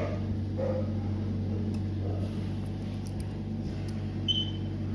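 Steady low mechanical hum of running equipment, with a single short high-pitched beep about four seconds in.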